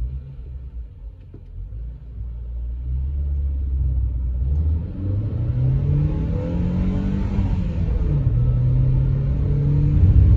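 Dacia Sandero's 1.4 MPI four-cylinder engine, running on LPG, at first holding steady, then about five seconds in climbing in pitch under hard acceleration. Near eight seconds the pitch drops sharply at an upshift, then climbs again.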